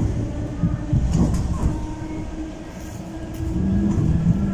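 Commuter train running, heard from inside the carriage: a low rumble of wheels on rail with irregular knocks. A steady hum comes in about three and a half seconds in.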